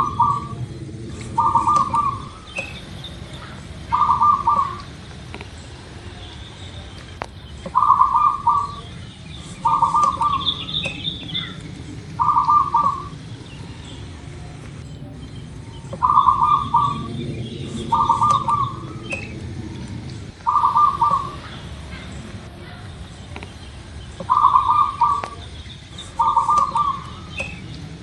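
Zebra dove (perkutut) singing its rolling, trilled coo. The coos come in phrases of three, a phrase about every eight seconds, over fainter high chirps and a low steady background rumble.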